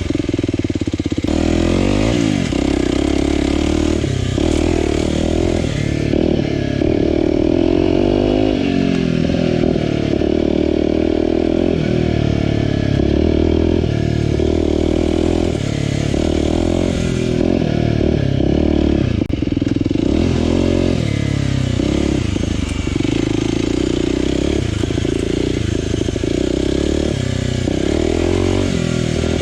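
Aprilia RX125 4T's single-cylinder four-stroke engine running through a Snell slip-on silencer with its dB killer fitted, ridden on and off the throttle: the engine note rises and falls again and again as it accelerates and eases off.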